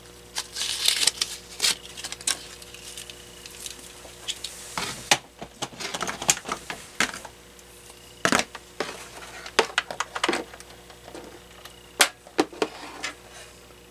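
Irregular sharp plastic clicks and knocks from handling a cordless phone base unit and plugging in its power adapter, with a brief rustle about a second in. A faint steady high tone sounds twice.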